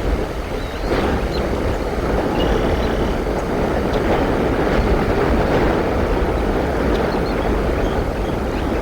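Steady wind noise buffeting the microphone, a constant low rumble, with a few faint, short high calls over it.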